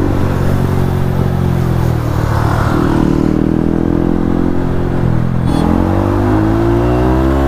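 Yamaha MT-15's single-cylinder engine with an Akrapovic exhaust running under way at a steady pitch. About five and a half seconds in the note dips briefly, then climbs steadily as the bike accelerates.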